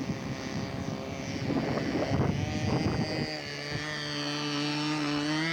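Radio-controlled model airplane's engine running at high power, steadier and clearer after about three seconds, its pitch rising slightly before the sound cuts off suddenly. Wind on the microphone underneath.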